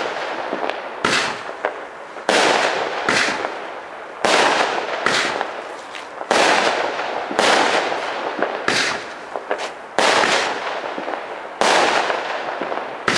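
Consumer fireworks going off in quick succession: a sharp bang about once a second, each one trailing off before the next.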